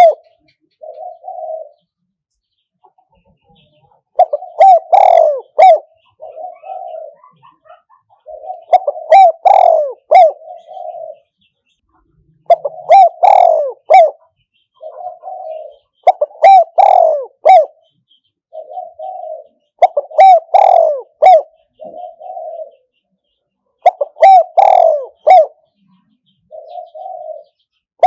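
Spotted dove cooing its song phrase over and over. A louder multi-note coo is followed each time by a shorter, softer one, repeating about every four seconds.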